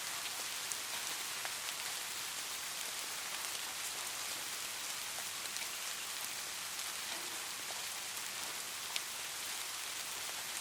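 Light rain falling steadily, a soft even hiss with scattered drops ticking on a surface.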